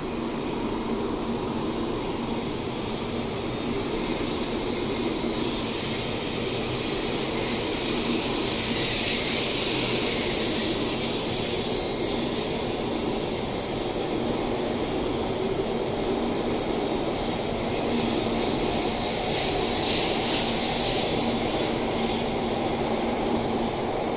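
Taiwan High Speed Rail 700T electric train pulling out and passing close alongside the platform, gathering speed: a steady rush of wheels on rail over a low hum. The rush swells about ten seconds in and again near the end as the cars go by.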